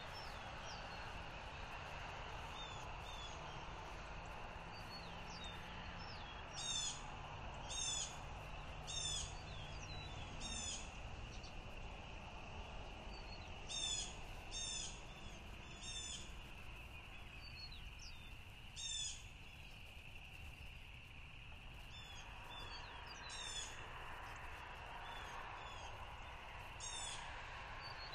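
A bird calling repeatedly in short, high calls, each a quick run of falling notes, several about a second apart with pauses between groups, over a steady background hiss.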